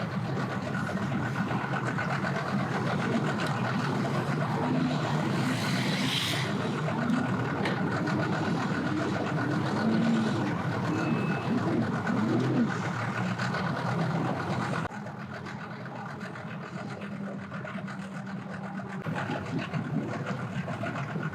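Engines running steadily with a low hum. About fifteen seconds in the sound drops abruptly to a quieter hum.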